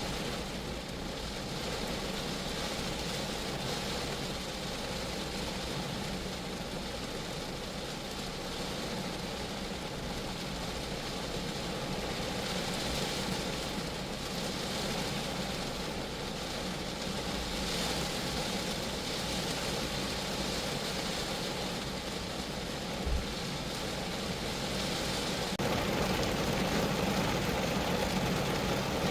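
Rain falling steadily on a small car's body and roof, with one brief knock about two-thirds of the way through and the rain growing slightly louder near the end.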